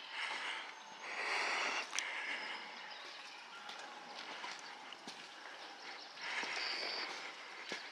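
Footsteps of a person walking on a trail, coming in uneven swells with a few sharp clicks.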